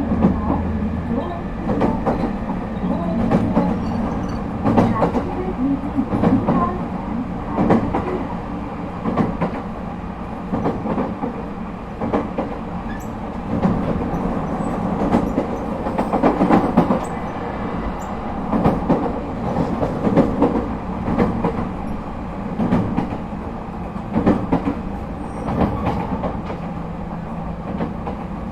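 Interior running sound of an ET127-series electric train (refurbished, Toyo IGBT-VVVF) at speed: a steady rumble with the wheels clacking over rail joints again and again.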